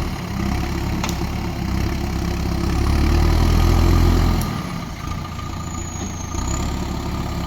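Diesel engine of a heavy machine running at low revs. About three seconds in it gets louder for a second or so, then settles back, with a couple of sharp clicks.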